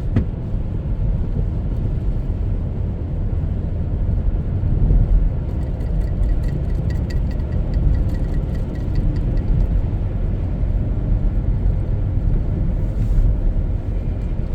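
Steady low rumble of a car running in the snow, with no clear change in pace.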